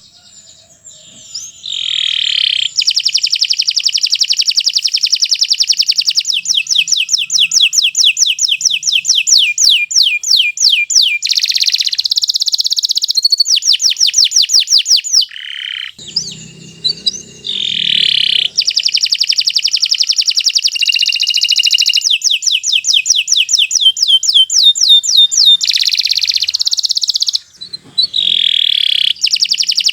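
Domestic canary singing a long unbroken song: fast runs of evenly repeated notes, each sliding down in pitch, alternating with dense buzzy rolls, with only a couple of short pauses.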